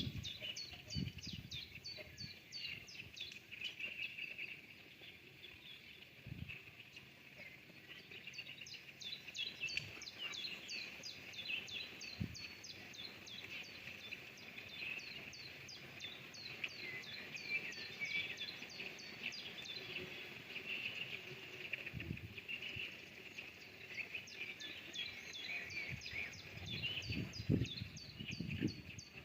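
Spring birdsong: many birds chirping and singing at once, with rapid repeated high notes throughout over a steady high-pitched chorus. A few soft low thumps come and go.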